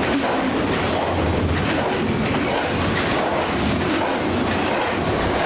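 Double-stack intermodal freight train passing close by: a steady, loud rumble of the cars' steel wheels on the rails, with scattered clicks and rattles.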